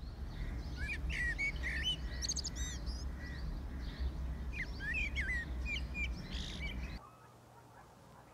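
Several birds chirping and calling in quick, varied short notes over a steady low rumble. The sound cuts off abruptly about seven seconds in.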